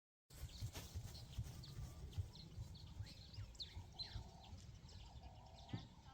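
Outdoor ambience that cuts in abruptly from dead silence: small birds chirping, with many short high chirps and gliding calls, over a steady low rumble.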